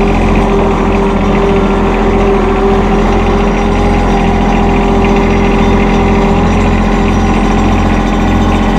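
Compact tractor's three-cylinder diesel engine running steadily, with an even hum that holds one pitch throughout.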